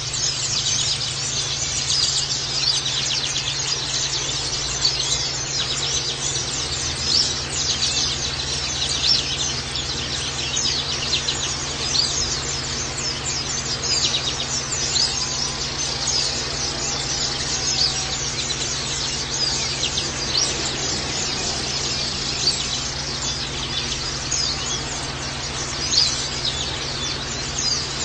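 A flock of oriental white-eyes (pleci) chirping without pause, a dense overlapping chatter of short, high calls, over a steady low hum.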